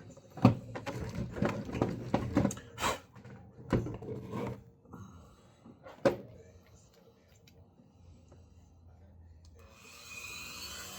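Irregular knocks and rubbing as a metal RC truck shock and sanding gear are handled, with one sharp knock about six seconds in. Near the end a steady sanding noise starts as the sander goes to work on the rusty shock body.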